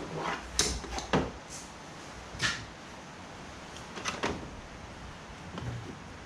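A screwdriver working at the plastic cowling's fasteners makes a handful of sharp plastic clicks and knocks, irregularly spaced. Wind rumbles on the microphone.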